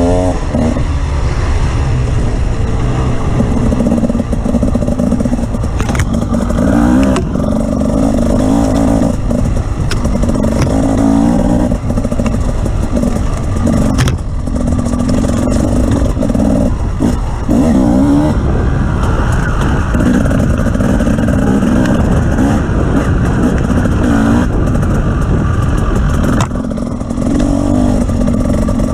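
Engine of an off-road vehicle being driven over rough ground, its revs rising and falling continually, with clattering knocks and a heavy low rumble.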